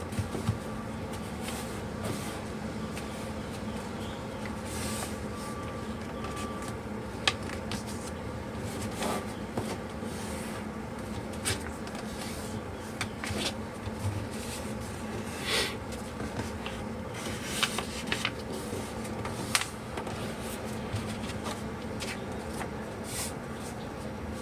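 Paper being handled and folded into a paper airplane, with scattered short rustles and crisp creasing clicks over a steady low hum.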